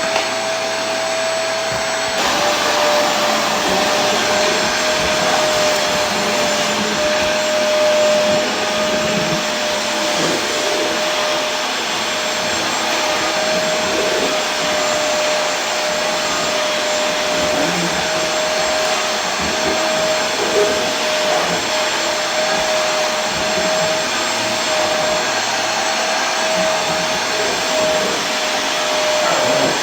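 Vacuum cleaner running steadily: an even rush of air with a constant motor whine held on one pitch.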